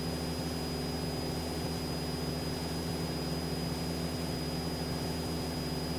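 Cessna 172SP's four-cylinder Lycoming IO-360 engine and propeller droning steadily in flight, heard from inside the cabin over a steady hiss.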